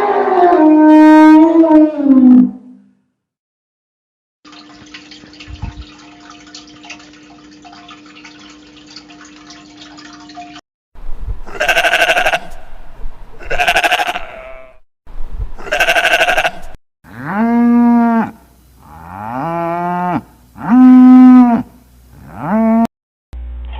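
A loud, drawn-out animal call ends in the first couple of seconds, followed by a short pause and then a steady low hum. From about eleven seconds in come sheep and goats bleating, about eight calls, the later ones rising and falling in pitch.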